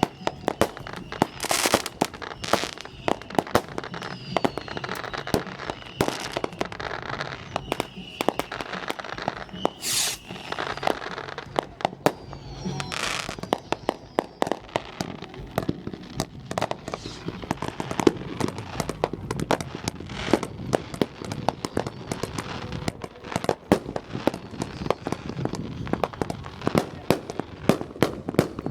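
Many consumer fireworks going off at once: a continuous, uneven string of bangs and crackling pops, with a few short hissing blasts and faint whistles sliding in pitch.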